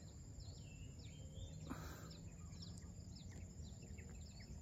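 Faint bird chirping in scrubland: many short, quick falling notes, high-pitched, over a steady thin high tone, with one brief rustle about a second and a half in.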